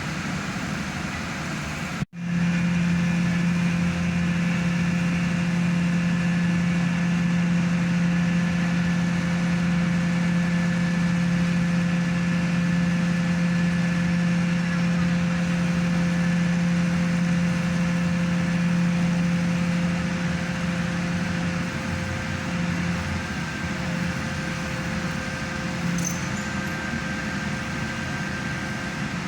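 Hydraulic static pile driver's engine and hydraulic power unit running steadily with a strong low hum. The sound cuts out for an instant about two seconds in, and the hum eases off about twenty seconds in.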